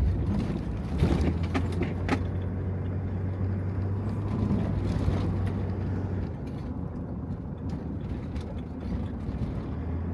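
Heavy rain drumming on the roof of a Toyota HiAce van, heard from inside the van, over a low rumble. The rumble drops away about six seconds in and comes back near the end. A few sharp ticks come in the first two seconds.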